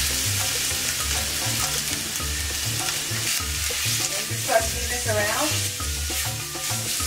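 Diced onion, ginger and garlic sizzling steadily in hot olive oil in a stainless steel pan as they are stirred with a spoon.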